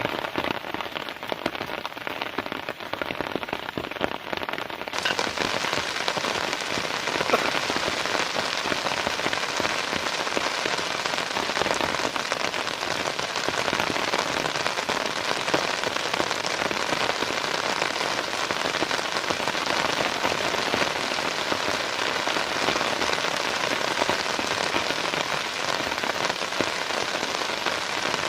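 Heavy rain falling steadily as a dense patter and hiss. About five seconds in, it turns suddenly brighter and hissier and stays that way.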